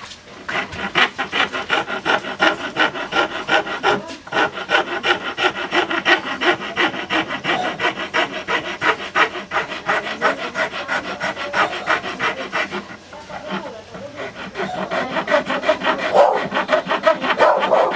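Rapid back-and-forth abrasive hand strokes, several a second, as the small knife is filed, sanded or honed. The strokes break off briefly about four seconds in and ease off for a moment past the middle.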